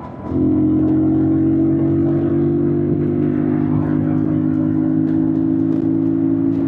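Yamaha MT-07's 689 cc parallel-twin engine pulling under throttle at a steady engine speed. It opens up abruptly about a third of a second in and holds an even, unchanging note.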